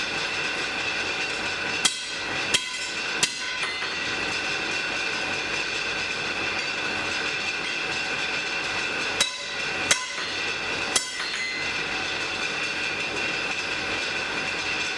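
Steady rushing hiss of a blacksmith's forge fire, broken by hammer blows on an anvil: three sharp ringing strikes about two seconds in and three more about nine to eleven seconds in.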